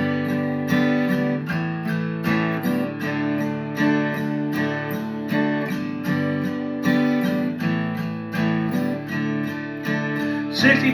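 Acoustic guitar strummed in a steady rhythm, playing a song's instrumental introduction before the singing comes in.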